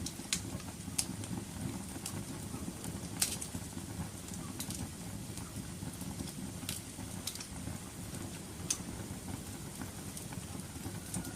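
Wood fire burning in a fireplace: a steady low rumble of flames with sharp crackles and pops every second or so.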